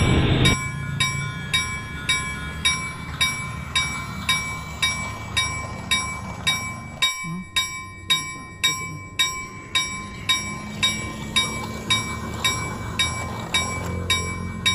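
A railroad-crossing-style bell ringing steadily, a little under two strikes a second. Under it runs the low hum of a battery toy train on plastic track.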